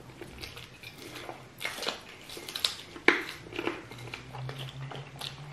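Close-miked eating sounds: chewing, biting and wet mouth smacks as chicken feet in stew are eaten, with scattered sharp clicks, the loudest about three seconds in. A faint steady low hum runs underneath.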